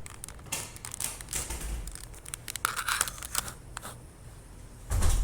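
Handling noises: scattered clicks, rustling and crinkling, with a louder low thump about five seconds in.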